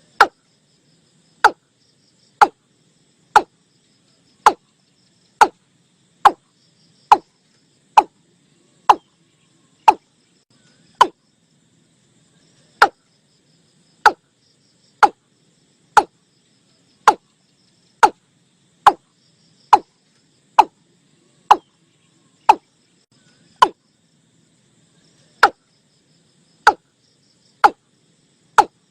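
Watercock (Gallicrex cinerea) calling: a long series of short, hollow notes at about one a second, broken by two short pauses. It is a recorded lure call used to draw watercocks in for trapping.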